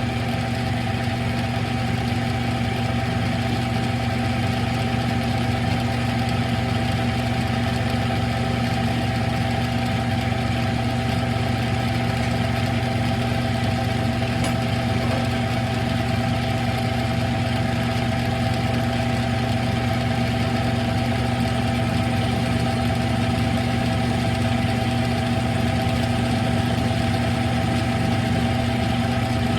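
Smithy CB-1220XL combination lathe running steadily, its motor and gear train giving an even hum that holds one pitch throughout.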